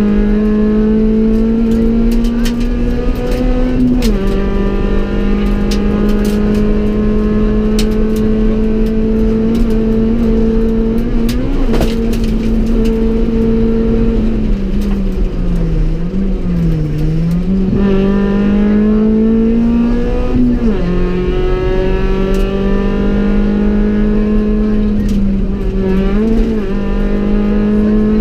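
Honda Civic EK4 rally car's engine heard from inside the cabin, running hard at high, near-steady revs. The pitch climbs and then drops sharply about four seconds in and again about twenty-one seconds in, like gear changes, and sinks and comes back up between about fifteen and eighteen seconds. Short clicks and knocks from the car run throughout.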